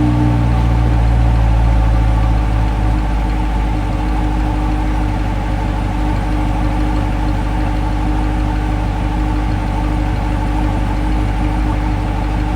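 C8 Corvette's V8 idling steadily after a cold start, slightly louder for the first couple of seconds and then settling to an even idle.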